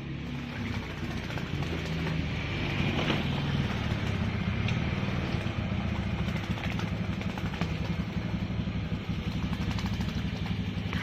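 An engine running steadily with a rough low hum, growing slightly louder a couple of seconds in.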